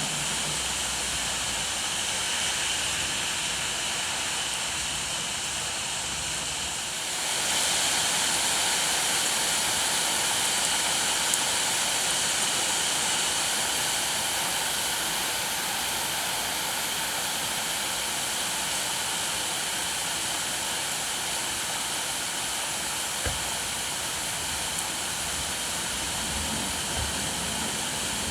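Steady rain falling, an even hiss that grows louder and brighter about seven seconds in as the rain gets heavier.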